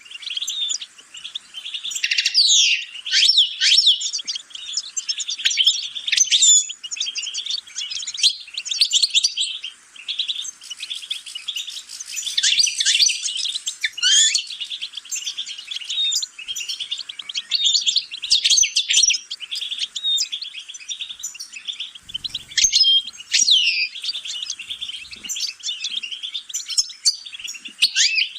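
Songbird singing a long, fast, twittering song of rapid chirps and trills, with a few brief pauses.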